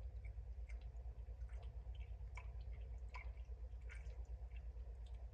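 Faint, scattered dripping ticks, a few a second, over a steady low hum.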